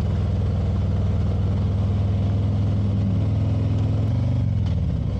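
Motorcycle engine running at a steady cruise. Its pitch drops briefly near the end, as in a gear change or easing off the throttle, then steadies again.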